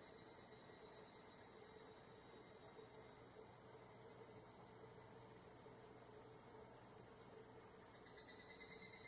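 Higurashi evening cicadas (Tanna japonensis) in a steady, high-pitched chorus. Near the end a nearer cicada starts its pulsing, rapidly repeating "kana-kana" call.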